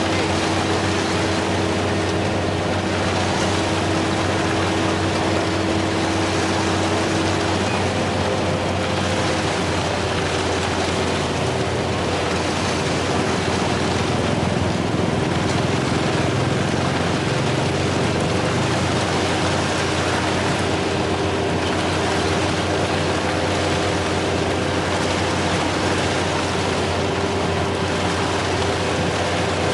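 Heavy diesel machinery running steadily at a constant pace, a continuous low engine hum under a wash of mechanical noise.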